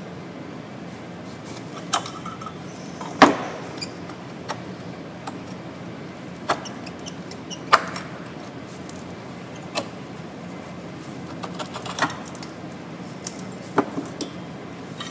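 Brake pads being worked out of a disc brake caliper carrier bracket: scattered sharp metallic clicks and clanks, about seven in all, the loudest about three seconds in. A steady low hum runs underneath.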